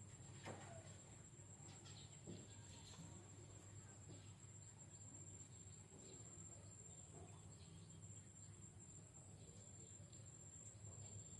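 Near silence: a faint, steady high-pitched whine over a low hum, with a few faint ticks.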